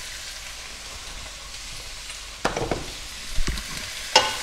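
Pork, onions and bell peppers sizzling steadily as they fry in a nonstick wok, stirred with two wooden spoons that scrape and knock against the pan three times in the second half.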